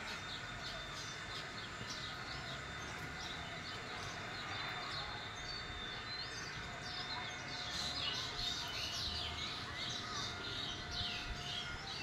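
Several small birds chirping, with many short high calls that come thicker in the second half, over a steady low background rumble.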